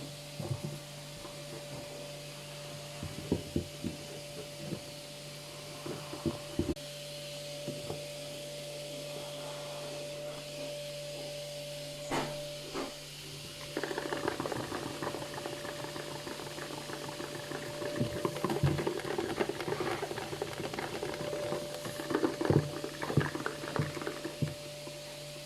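Washing machine running with a steady motor hum and occasional knocks; about halfway through, a busier sound of water sloshing in the turning drum sets in.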